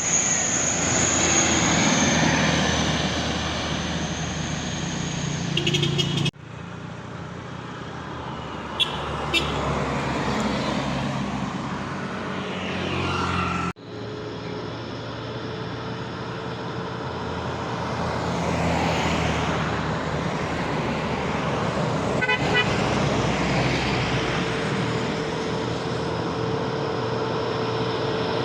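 Road traffic with truck and car engines running past and a vehicle horn sounding. The sound breaks off abruptly twice where the footage is cut.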